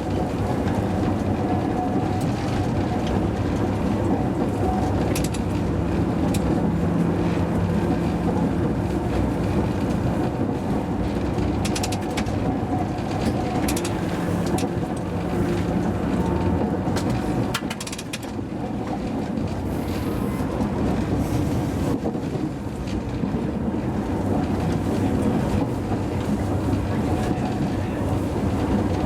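Hakodate city tram car 530 running along the line, heard from the driver's cab: a steady rumble of wheels on rail with a traction-motor hum that swells twice. Scattered sharp clicks and knocks come in small clusters.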